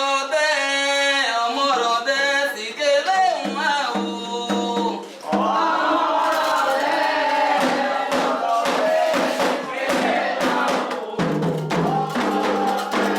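Candomblé ritual song: a lead singer chants alone with a wavering voice, then about five seconds in a group of voices answers in chorus while drums and other percussion strike along.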